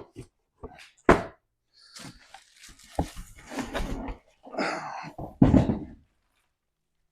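Thumps and knocks with rustling between them as a boxed plasma cutter and its packaging are handled, the loudest thud about five and a half seconds in.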